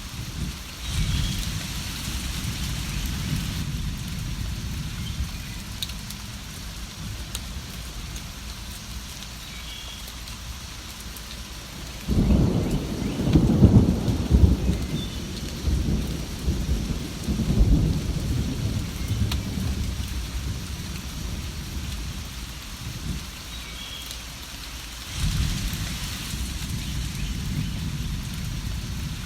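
Steady rain with rolling thunder: a low rumble about a second in, a louder, longer roll from about twelve to twenty seconds in, and another rumble near the end.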